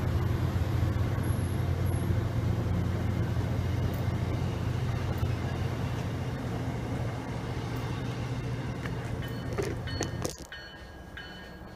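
MBTA commuter rail train of bi-level coaches running past, a steady low rumble of engine and wheels that slowly fades as the last coach goes by. About ten seconds in the sound cuts off abruptly to a much quieter background.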